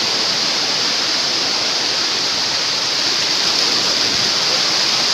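Waterfall: a steady, unbroken rush of falling water, loud and hissy.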